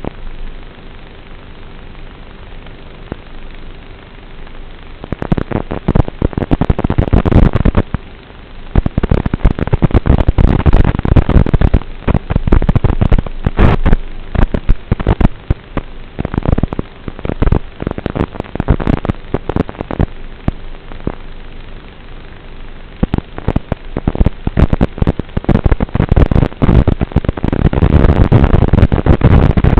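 HPI Savage RC monster truck driving, heard through its onboard microphone as a steady hiss that turns, about five seconds in, into dense, distorted crackling and rough surging noise.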